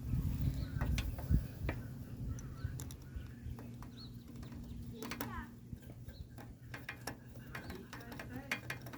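Birds chirping over a steady low hum, with scattered sharp clicks and taps.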